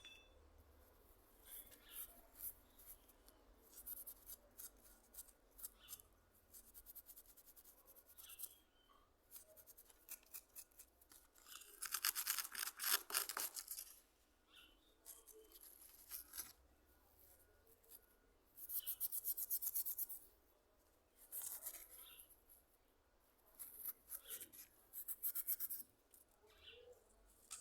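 Rubbing by hand in short bursts of rapid back-and-forth scrubbing strokes, with pauses between them; the loudest bursts come about twelve and nineteen seconds in.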